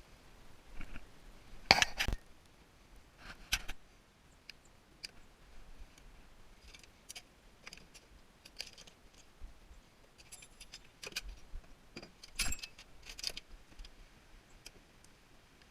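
Scattered metal clinks and clicks of hand tools and metal parts being handled during a tankless water heater teardown, at irregular intervals. The loudest come as a quick pair a little under two seconds in and again about twelve seconds in.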